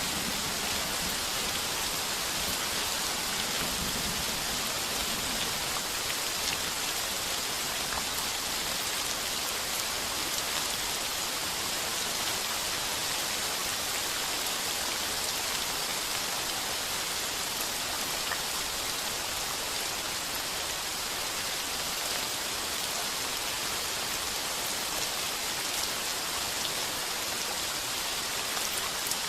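Heavy rain falling steadily on a tin roof, an even hiss of drops with no breaks or thunder claps.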